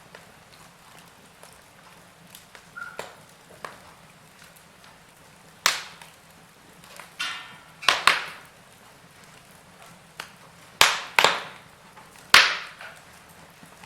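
Wood fire in a fireplace crackling: irregular sharp pops and snaps of burning logs, the loudest coming in the second half, over a low steady hiss.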